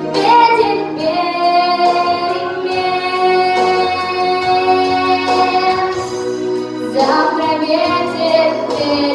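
A song: a high sung voice, likely a child's, holding long notes over sustained instrumental chords, with the melody changing note every second or two.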